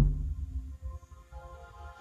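Bass-heavy music played through an Earthquake MiniMe P8 subwoofer, in a break: a loud deep bass note cuts off at the start, leaving only a faint low rumble and a few quiet held tones.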